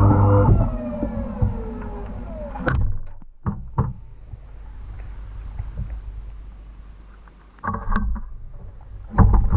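Washing machine drum and motor spinning down: a steady hum whose whine falls in pitch over the first few seconds as the drum slows, then a quieter low rumble with a few knocks, and two louder clunking rattles near the end.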